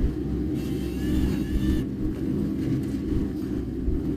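Steady low rumble of a car driving, heard inside the cabin. From about half a second in, a hiss with faint thin squeaky tones comes in for just over a second.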